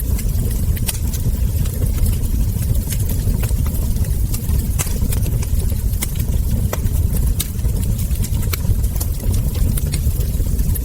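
Wood fire crackling: irregular sharp pops and snaps from burning logs and embers, about two a second, over a steady low rumble.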